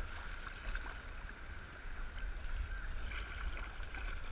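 River water lapping and splashing around a kayak, with a low rumble of wind buffeting the GoPro's microphone and scattered small clicks and knocks. A faint steady high hum runs underneath.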